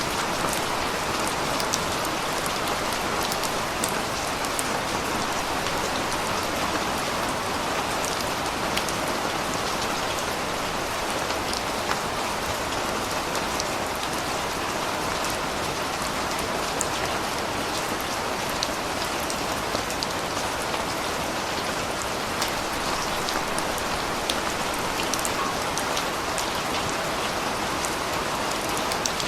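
Steady rain falling on surfaces, a constant hiss with many individual drops ticking through it.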